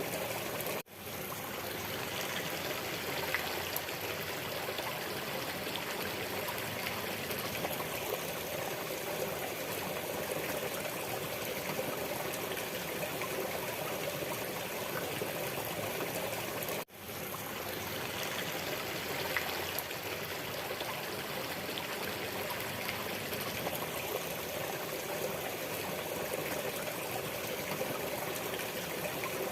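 Waterfall's steady rush of falling water. It cuts out for an instant twice, about a second in and again about 16 seconds later, fading straight back up each time.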